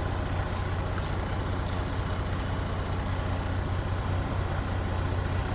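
Kenworth W900 semi truck's diesel engine idling steadily, a constant low hum, with a couple of faint clicks about a second in.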